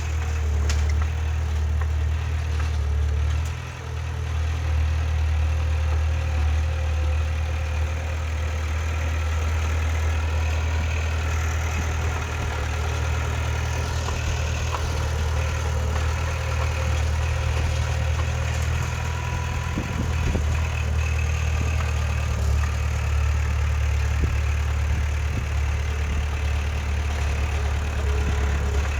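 Heavy diesel earthmoving machinery engine running steadily, with a deep low hum and one brief dip about four seconds in.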